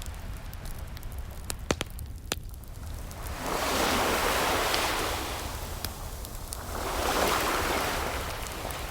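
Ocean waves washing in twice, each a slow swell of surf that rises and fades, over a steady low rumble. Sharp pops and crackles from a wood fire come through between and beneath the waves, several close together early on.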